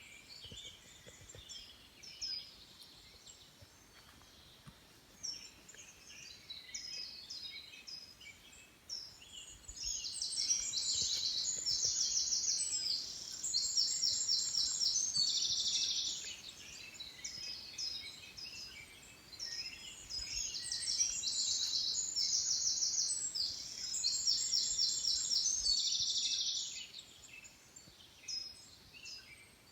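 Small songbirds singing: a loud, fast-trilling song comes twice, each bout about six seconds long, over quieter scattered chirps from other birds.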